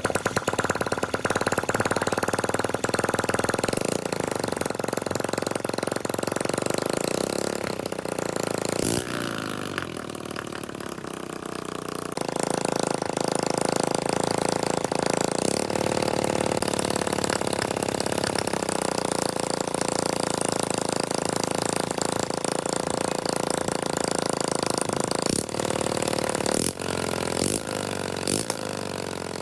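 Restored Honda 125cc single-cylinder four-stroke motorcycle engine running just after start-up. The revs drop about nine seconds in, pick up again a few seconds later, and shift briefly a few more times near the end.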